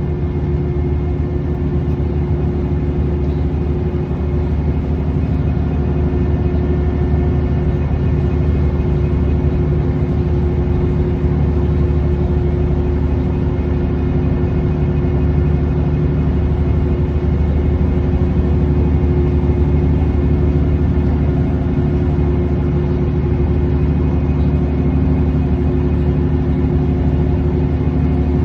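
A boat's engine running at steady cruising speed, a constant low drone with a hum on top.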